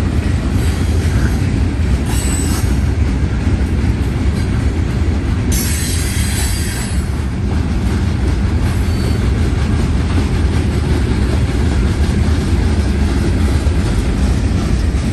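Freight cars of a manifest train rolling past: a steady low rumble of steel wheels on the rails, with a brief high screech about six seconds in.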